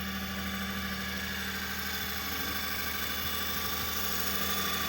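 Nissan Clipper's engine idling steadily after a cylinder head refit with fresh timing and tappet clearance adjustment, running smoothly at an even, unchanging speed.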